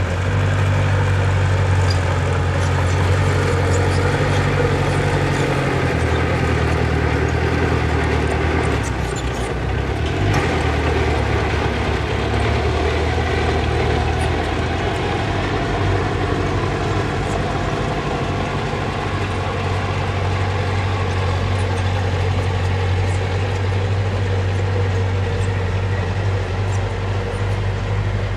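Diesel engine of earthmoving machinery running steadily under work, its note shifting briefly about a third of the way in.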